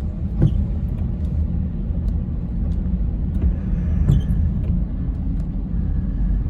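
Car running along the road, heard from inside the cabin: a steady low rumble, with a few faint sharp ticks over it.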